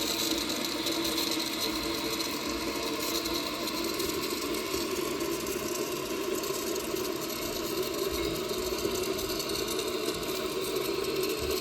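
New toilet's tank filling from the water supply: water running through the fill valve into the tank with a steady, even rushing sound.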